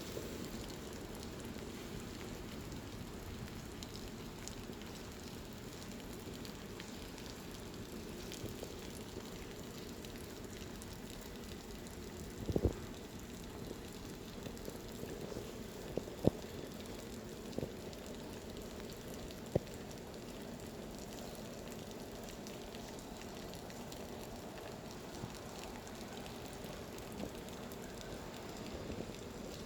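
Steady monsoon-season rain falling and pattering on surfaces. A short cluster of louder knocks comes about twelve seconds in, and a few single sharp knocks follow over the next several seconds.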